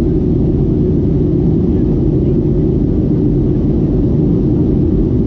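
Boeing 737-800 jet airliner in flight, a loud steady low roar of its CFM56 engines and airflow as heard inside the cabin, muffled with little high-pitched sound.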